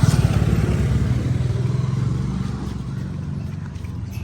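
A motor vehicle's engine running close by, loudest at first and slowly fading as it moves away.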